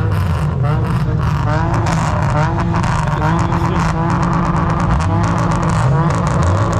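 A car engine revved hard over and over, its pitch climbing and dropping several times, with sharp crackles throughout.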